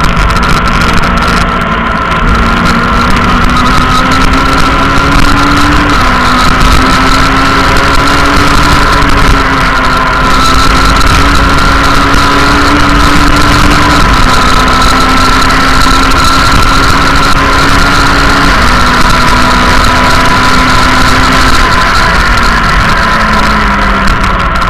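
Rally car engine run hard at high revs, heard from inside the cabin: the engine note climbs slowly through each gear and drops at every shift, with several shifts, then falls away near the end as the car slows.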